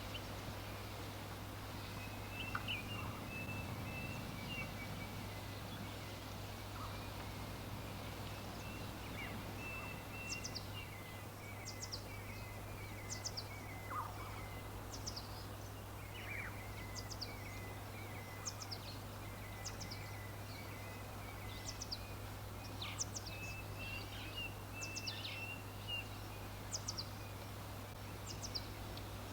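Small songbirds chirping and twittering: a running twitter throughout, joined about a third of the way in by many short, high, downward-slurred chirps. A steady low hum lies underneath.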